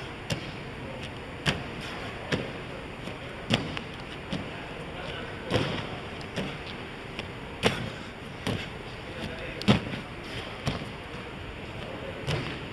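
Feet landing on gym mats in a run of consecutive frog jumps: a dull thud about every second, a dozen or so in all.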